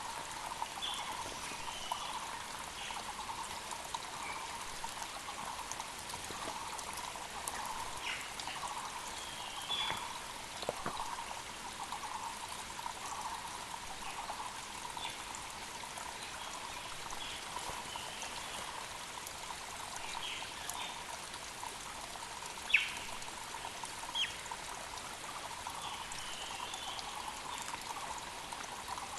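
A mountain creek flows steadily, with short bird chirps scattered over it. A single sharp click, the loudest sound, comes about two-thirds of the way through, and a softer one follows a moment later.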